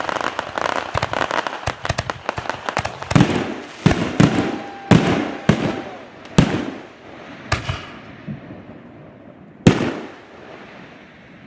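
Fireworks going off: dense rapid crackling for about three seconds, then a string of separate loud bangs that come further apart and fade, the last one about ten seconds in.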